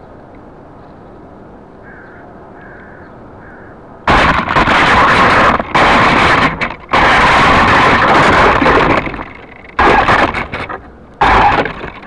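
Low hum, then about four seconds in a loud rushing roar from a Syma S033G electric RC coaxial helicopter's motors and rotors close to the microphone. The roar starts and stops abruptly several times as power is applied and cut.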